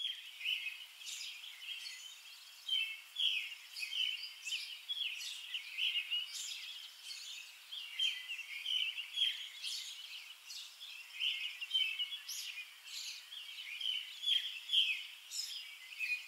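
Songbirds chirping: a steady stream of short, high calls, many overlapping, with no lower sounds beneath them.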